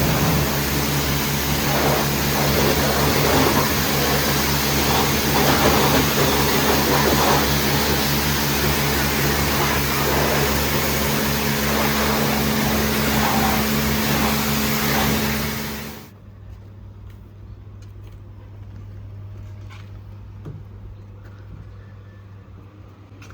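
Pressure washer running: a steady motor hum under the loud hiss of the water spray. It cuts off abruptly about two-thirds of the way through, leaving a faint low hum and a few light clicks.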